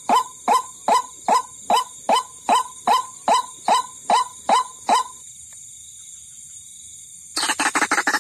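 White-breasted waterhen (ruak-ruak) calling, a lure recording: a regular series of short calls, about two and a half a second, that stops about five seconds in. After a pause of about two seconds, a faster, denser run of calls starts near the end.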